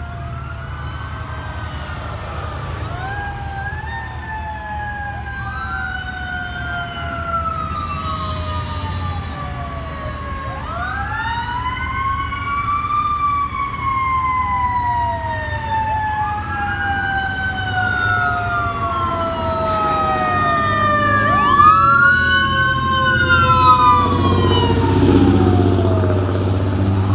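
Fire truck siren wailing, again and again rising quickly in pitch and then sliding slowly down, over the truck's engine rumble, which grows louder toward the end as the truck comes closer.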